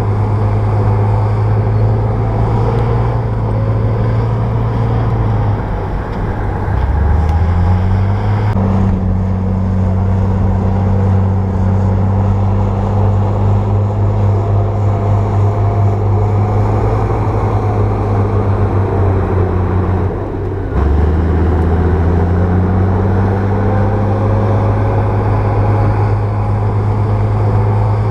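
Bulldozer's diesel engine running hard. Twice, about six seconds in and again about twenty seconds in, the engine note drops briefly and then climbs back up as the revs rise again.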